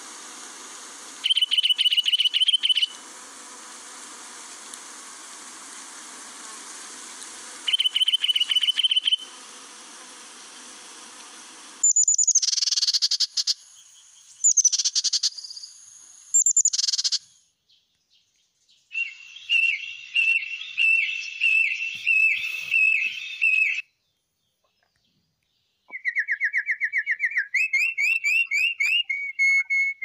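Bridled titmouse calling: two short, rapid chattering trills over a steady hiss, then a run of sharp high calls and a longer rapid chatter. Near the end, after a brief silence, a canary starts singing in fast trills that step up in pitch.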